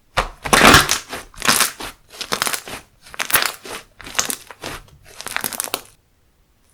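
Handmade slime being squeezed and pressed by hand, crackling and crunching in about six bursts, roughly one a second, stopping about six seconds in.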